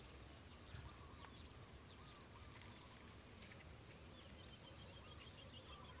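Near silence: faint open-air ambience with scattered distant bird chirps, and a quick run of high ticks near the end.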